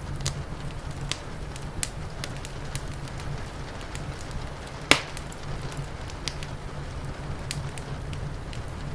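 Wood fire crackling, with scattered small pops and one loud sharp pop about five seconds in, over a steady low rumble and hiss.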